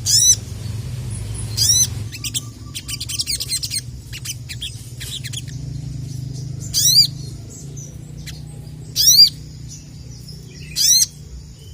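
Sogok ontong (sogon) sunbird singing: short, sharp, high calls of quick rising-and-falling notes, five bursts a second or more apart, with a fast twittering run in the middle. A steady low hum lies underneath.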